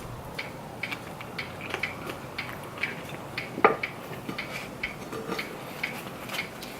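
Close-up eating sounds: chewing with a steady patter of small mouth clicks about two a second, and one sharper, louder click about three and a half seconds in.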